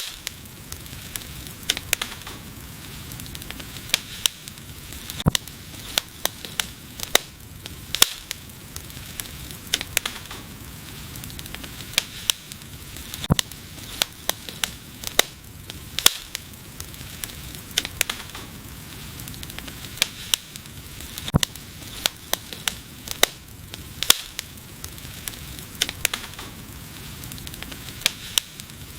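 Wood fire crackling: irregular sharp pops and snaps, several a second and some louder than others, over a steady low hiss of the flames.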